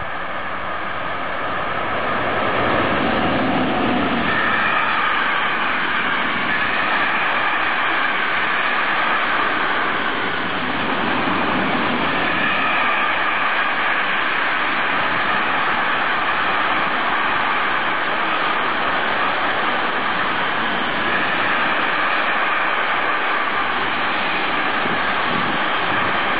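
Container freight train passing, with the steady rolling rumble of wagon wheels on the rails. It grows louder over the first few seconds as the train draws level, then holds steady as the long string of container wagons goes by.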